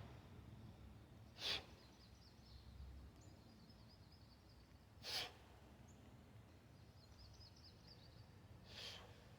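Three short, sharp exhales, one every three and a half seconds or so, from a lifter working through reps of a 24 kg kettlebell clean and press. Faint high chirping can be heard between them.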